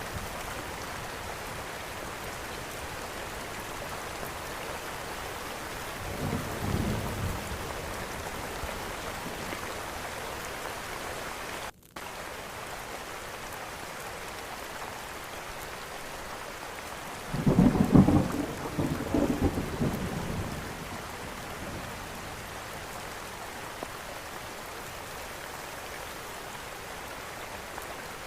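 Steady rain with thunder rumbling twice: a weaker roll about six seconds in and a louder, longer one from about seventeen to twenty seconds. The sound cuts out for a split second near twelve seconds in.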